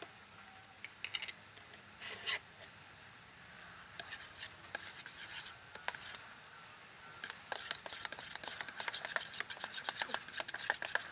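Hands working slime ingredients: a few scattered clicks at first, then from about seven seconds in a dense run of quick clicks and scraping strokes.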